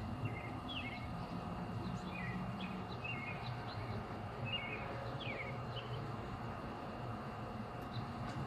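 Birds chirping in short calls, frequent for the first six seconds or so and then sparse, over a steady low background hum.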